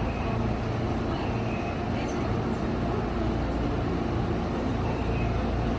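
Railway station platform ambience: a steady low hum and rumble from a train and the station, with faint voices in the background.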